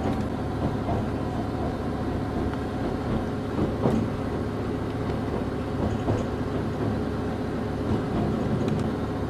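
Passenger train running, heard from inside the carriage: a steady low rumble with a few knocks from the wheels on the track.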